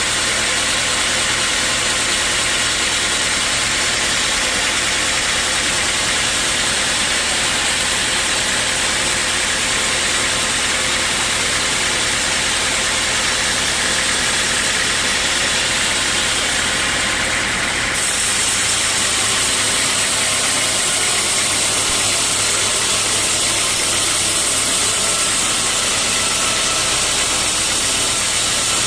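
Sawmill machinery running steadily: a constant engine or motor hum under a dense high hiss. The sound changes abruptly about eighteen seconds in.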